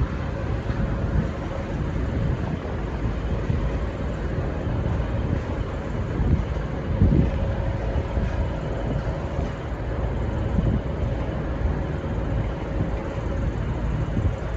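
Diesel-hauled V/Line N class passenger train running, a steady low rumble of the train on the track with a heavier thump about halfway through.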